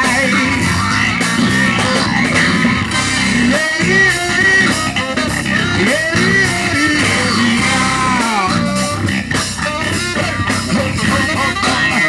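Live band playing loud funk music without vocals, a lead instrument line bending up and down in pitch over the band.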